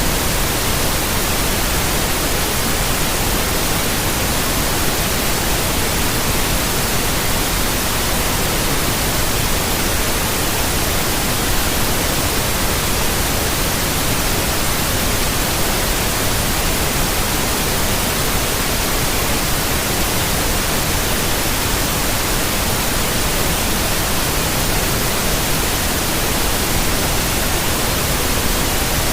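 Steady synthetic white noise: an even hiss spread across all pitches, constant in level without any change.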